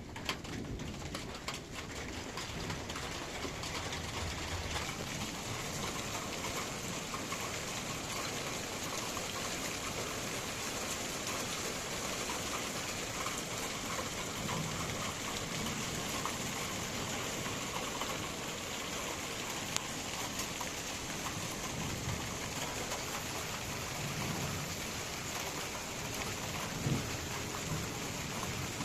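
Heavy rain falling steadily, with low rumbles of thunder about halfway through and again near the end.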